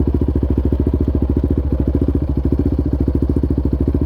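Yamaha Raptor 700R quad's big single-cylinder four-stroke engine running at low, steady revs, its exhaust thumping about ten times a second.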